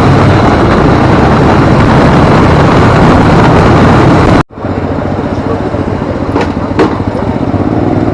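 Harley-Davidson motorcycle engine running, loud at first and then cut off suddenly about halfway through, giving way to a quieter stretch of engine sound with two sharp clicks.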